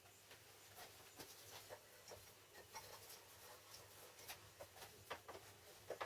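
Near silence with faint, scattered light scratching and small ticks, several a second, over a low hum.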